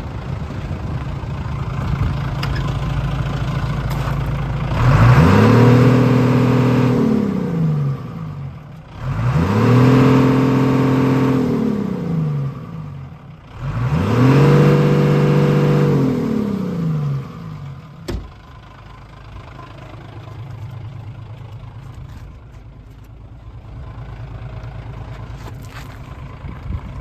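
Mitsubishi Fuso Fighter truck's 6M61 inline-six diesel engine idling, then revved three times: each rev climbs quickly, holds for a couple of seconds and drops back. It then settles back to idle, with a single sharp click in between.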